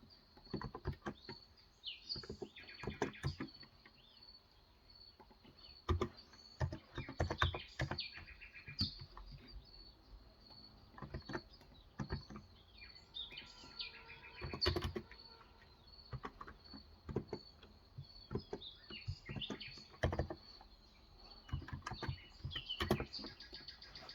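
Typing on a Cox Endeavor 35 g electrostatic capacitive tenkeyless keyboard, in bursts of keystrokes with short pauses between them. Birds chirp in the background.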